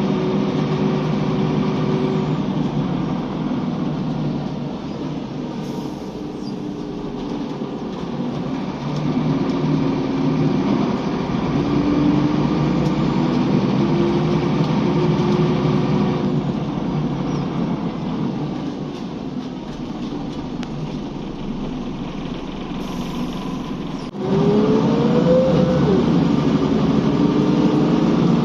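A Scania L94UB bus's nine-litre five-cylinder diesel engine running, its pitch rising as the bus accelerates and falling as it eases off, several times. About 24 seconds in there is a sharp knock, and the engine is suddenly louder as it pulls again.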